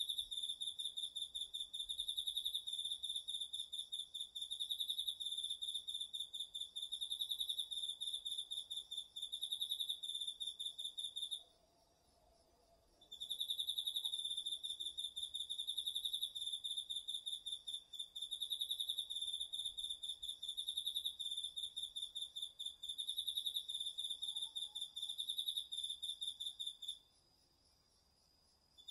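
A cricket singing a high, rapidly pulsed trill in long, steady bouts. It breaks off for a second or two about eleven seconds in and again near the end, then resumes.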